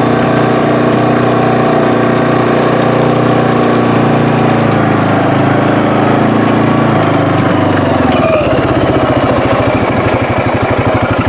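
An engine running steadily, then dropping in pitch about eight seconds in and settling into a slower, pulsing run.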